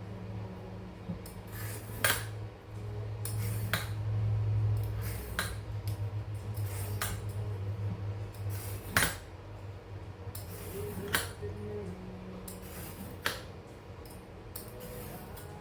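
A carrot being peeled with a vegetable peeler: a short sharp scrape or click every second or two, over a steady low hum.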